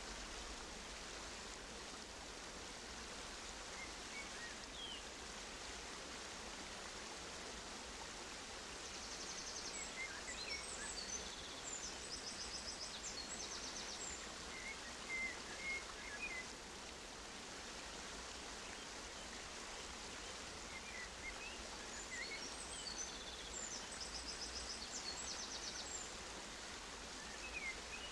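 Steady rush of running water, as from an aviary waterfall, with small aviary birds chirping and giving quick high trills in two spells, about a third of the way in and again near the end.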